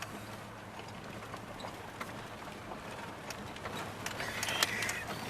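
Cab noise of a 1992 Dodge Dakota pickup running on wood gas while driving: a steady low engine hum over road noise, with scattered small rattles and clicks.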